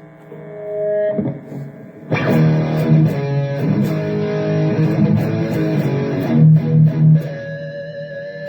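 Electric guitar played through a Donner Arena2000 multi-effects pedal with its Tube 9 overdrive model: a few ringing single notes, then loud distorted chords from about two seconds in.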